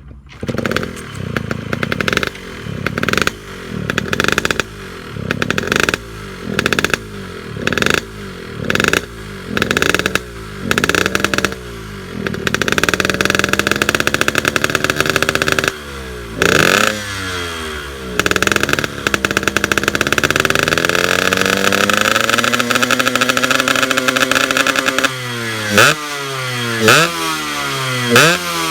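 Yamaha RX-S 115 two-stroke single-cylinder engine breathing through an aftermarket Altech C20RR racing exhaust, revved over and over. It opens with quick throttle blips, moves to longer revs that are held and slowly rise and fall, and ends with another run of quick blips.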